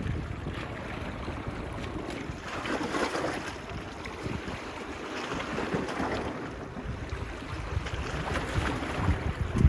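Small waves washing onto the beach, swelling about every three seconds, with wind rumbling on the phone's microphone.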